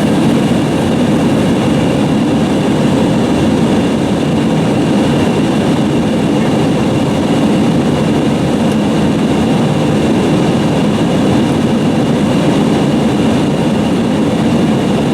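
Steady cabin noise inside an Airbus A320: the engines' drone under a constant rush of air, with a few faint steady whining tones above it.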